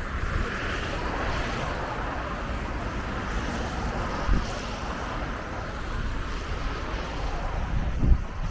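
City street traffic noise with low rumble, heard from a moving bicycle, with two short low thumps about four and eight seconds in.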